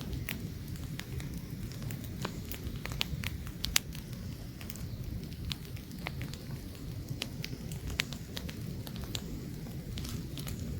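Wood campfire burning, with sharp, irregular crackles and pops over a steady low rumble of flames and light wind.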